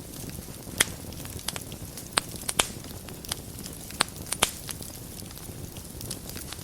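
Wood fire burning in a fireplace: a steady low rumble of flames with sharp crackles and pops at irregular intervals, bunched in the first few seconds.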